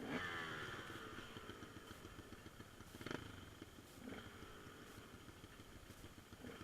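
Faint dirt bike engine, its pitch falling over the first second as the revs drop, then running low and faint.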